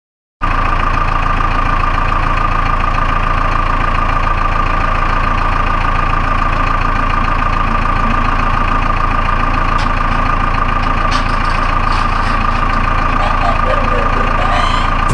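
Tractor engine running steadily, with a constant high-pitched whine over its low drone; it starts abruptly about half a second in.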